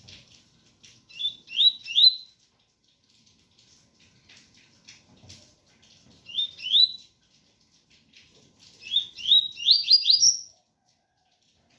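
Double-collared seedeater (coleiro) singing the pure 'tui-tui' song: short, high, upslurred whistled notes in three phrases. There are three notes about a second in, two in the middle, and a quicker run of about six near the end, over a faint patter of rain.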